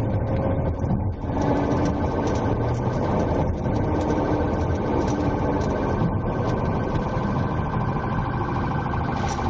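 Steady running noise from a pursuing police vehicle, a constant drone with a few held tones and no change in pitch.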